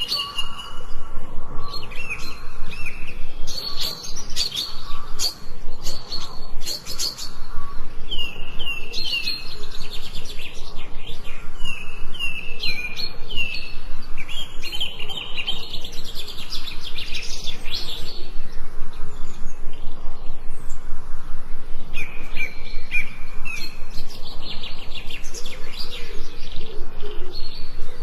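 Forest songbirds chirping and singing: many short, falling whistled notes, often in quick runs of several, with sharp ticking calls mixed in.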